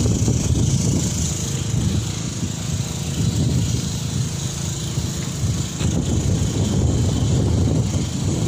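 An engine running steadily: a low, uneven rumble with a constant high hiss over it.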